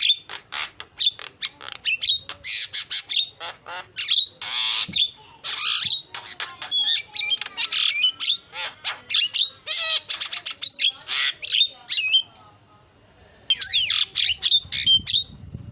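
Javan myna (jalak kebo) singing a rapid, chattering medley of squawks, whistles and harsh notes, with a brief pause of about a second near the end before it starts again.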